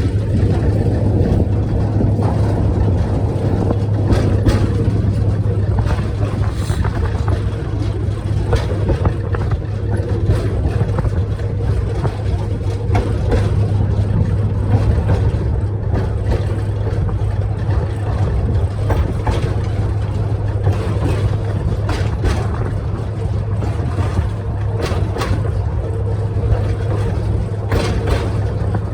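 Small tourist train running steadily: a constant low engine drone with occasional short clicks and knocks.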